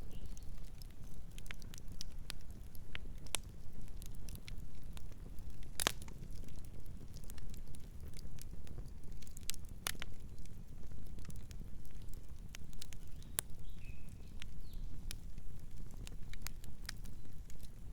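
Campfire crackling: burning wood snapping and popping in sharp, irregular clicks, a few louder than the rest, over a low steady rumble.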